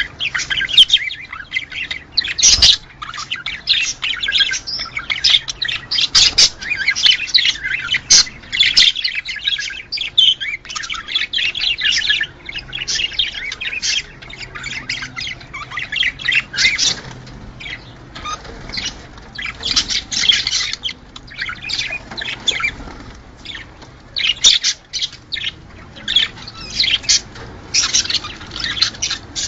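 A flock of budgerigars chattering nonstop, a dense mix of chirps, warbles and squawks that thins a little midway and then picks up again.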